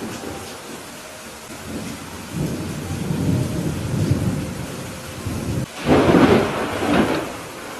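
Steady rain falling during a thunderstorm, with thunder rumbling low from about two seconds in and then a louder, sharper clap about six seconds in, followed by a second smaller one.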